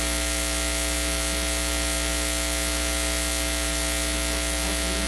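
Steady electrical buzz and hiss: a hum made of many steady tones, continuous and unchanging.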